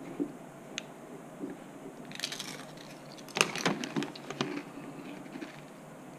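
Tortilla chips crunching as they are bitten and chewed, in a few short irregular clusters of crackles about two and three and a half seconds in.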